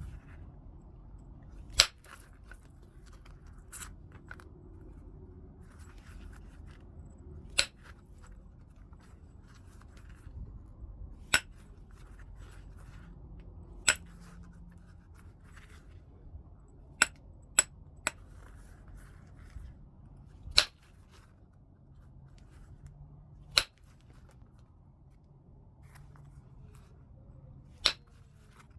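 Flintknapping on heat-treated Burlington chert: about a dozen sharp clicks as flakes are driven off the stone, spaced one to four seconds apart, with a quick run of three near the middle.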